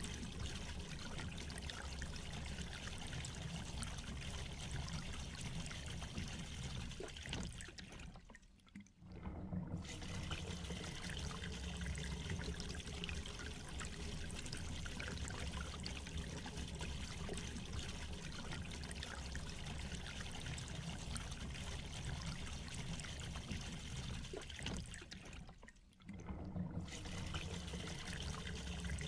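Steady rain falling and splashing, an even hiss of drops. It briefly fades almost away and comes back twice, about eight seconds in and again near the end.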